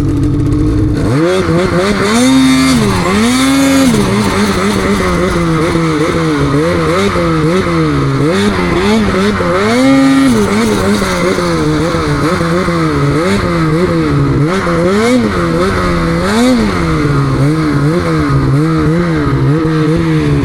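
Snowmobile engine revving up and down over and over as the throttle is worked on and off, the pitch rising and falling every second or two.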